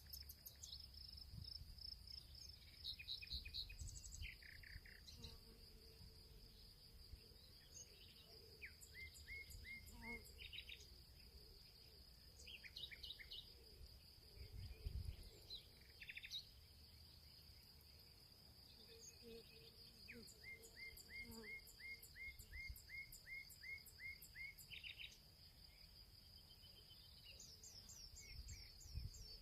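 Faint field ambience: a steady, high insect trill like crickets, with songbirds calling over it, including two runs of quick repeated chirps about a third and two thirds of the way through, over a low rumble.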